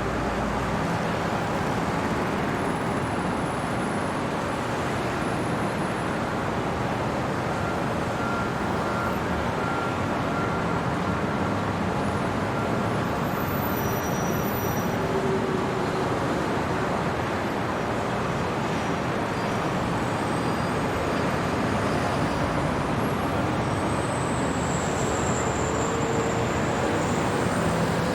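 Steady city road traffic noise, an even wash of vehicles and tyres with no single event standing out. A faint high whine rises and falls near the end.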